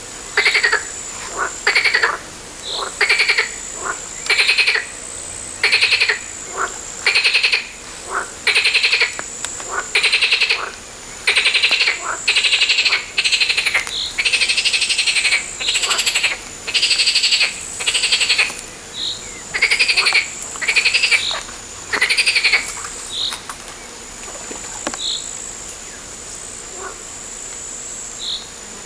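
Frogs calling by the water: a run of loud, rattling croaks about once a second, dying away about three quarters of the way through to a few short chirps. A steady high insect trill runs underneath.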